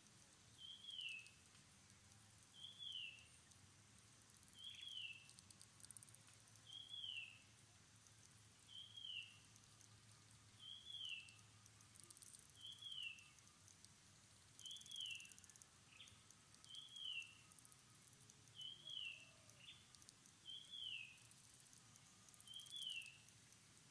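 A bird repeating a short, high, falling call about every two seconds, faint, over a soft high hiss of insects that swells now and then.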